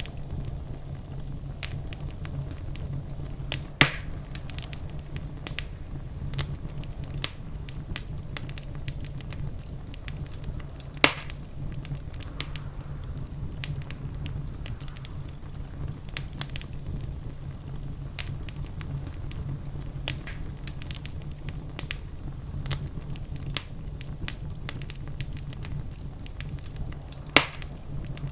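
Wood fire crackling in a fireplace: a steady low rumble of the flames with irregular sharp crackles throughout, and three louder pops, about 4 seconds in, near the middle, and near the end.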